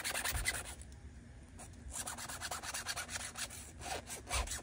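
Round chainsaw file worked by hand against metal, deburring an edge roughened by hammering. Quick back-and-forth scraping strokes come in two bouts, a short one at the start and a longer one after a pause of about a second.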